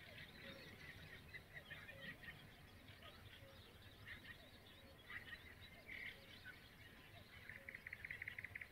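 Near silence, with faint distant birds calling: scattered chirps, then a rapid trill near the end.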